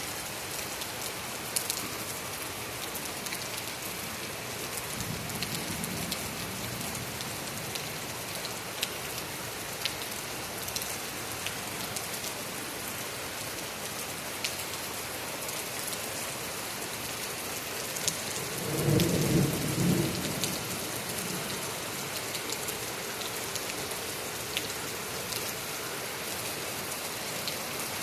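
Heavy rain falling steadily, with scattered sharp drop ticks. A faint low rumble of thunder comes about five seconds in. A louder rumble of thunder lasting about two seconds comes about two-thirds of the way through.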